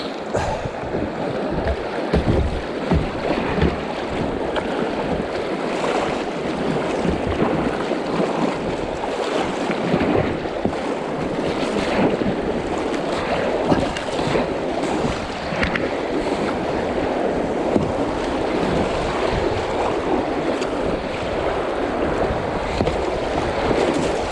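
River water rushing and splashing through rapids around a kayak in a river running high, with wind buffeting the microphone.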